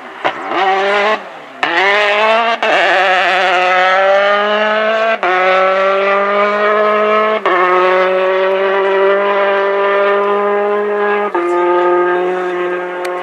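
Peugeot R5 rally car's turbocharged four-cylinder engine at full throttle. The revs rise and fall quickly through a slow section, then it pulls hard and shifts up four times, each shift a brief cut in the engine note. After the later shifts it holds a high, slowly rising note.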